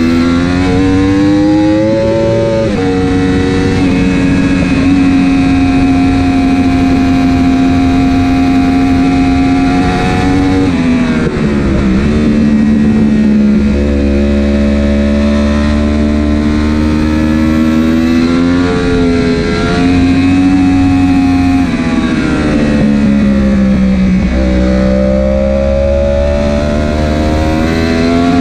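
Superbike engine heard from on the bike, running hard with its pitch holding, falling and climbing as the throttle is opened and closed, with sudden pitch steps at gear changes.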